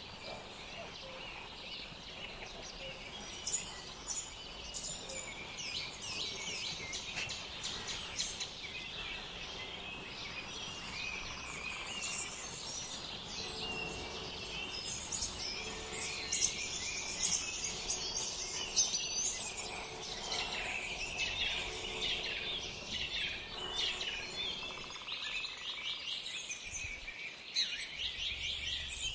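Wild songbirds chirping and singing together, a continuous busy chorus of short, high, overlapping calls and trills that grows thickest around the middle.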